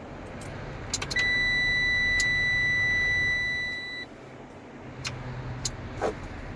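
Dashboard warning buzzer in a heavy truck's cab sounding one steady high tone for about three seconds as the ignition is switched on before starting, with sharp clicks before and after it.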